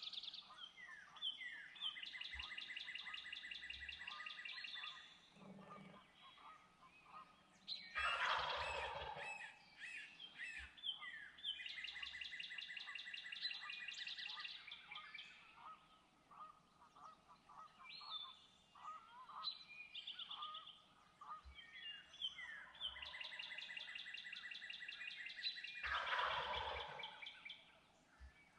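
Wild turkey gobbling twice, about eight seconds in and again near the end, each a rattling call falling in pitch over a second or so. Between the gobbles, other birds give long, high, rapid trills three times.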